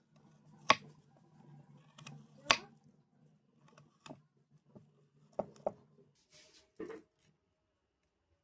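Sharp knocks and clinks of kitchen utensils being handled during cooking: two loud ones in the first three seconds, then several softer ones, including a quick pair. A low hum underneath stops about six seconds in.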